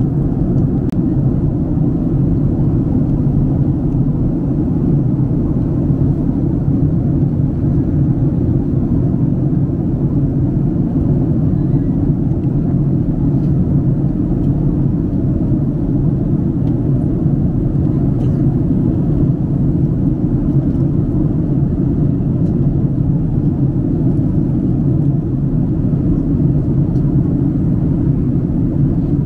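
Steady low cabin drone inside a Boeing 767-300 in flight: engine and airflow noise heard from a window seat, even and unchanging.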